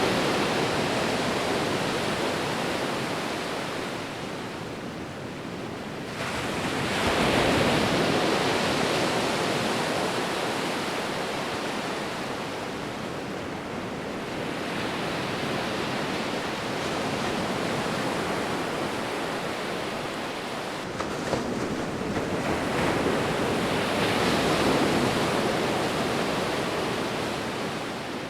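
Ocean waves breaking and washing on a shore, a steady surf wash that swells and ebbs, with surges about every six to eight seconds.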